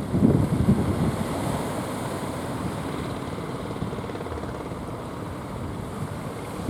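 Strong wind buffeting the microphone over the steady rush of sea surf, with heavier gusts in the first second.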